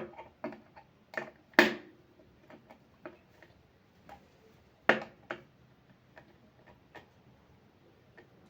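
Irregular light clicks and taps of hand tools and metal parts being handled, with louder knocks about one and a half seconds and five seconds in.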